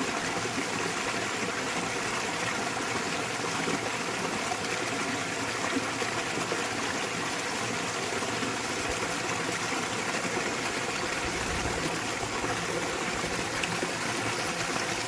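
Small waterfall splashing steadily into a mountain stream, a constant rush of running water.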